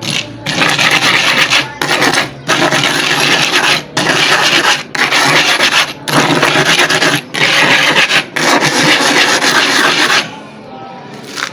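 A very hard sharpening stone rubbed back and forth on a cement floor: a loud gritty scraping in about seven long strokes with short breaks between them, stopping about ten seconds in. The stone's face is being ground down little by little to wear away a hole in it.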